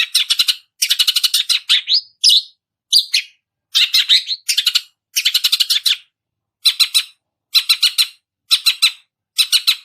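Long-tailed shrike (cendet) practising the begging calls of nestlings (piyikan). It gives short bursts of rapid, high chattering notes, about one burst a second.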